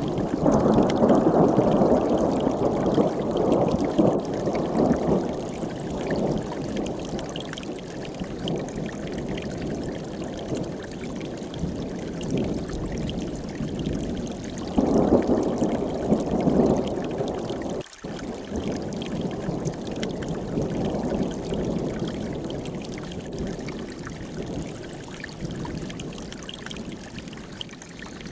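Mountain stream rushing over rocks in a steady wash of water noise, swelling louder for a few seconds at the start and again about halfway through, with a very brief break a little after that.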